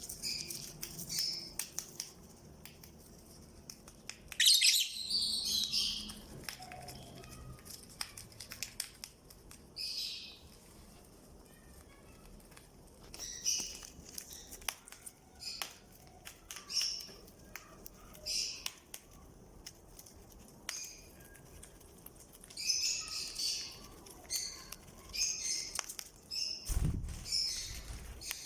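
Fischer's lovebirds chirping in short, high-pitched bursts over and over, the loudest about four seconds in, with scattered faint clicks and a low thump near the end.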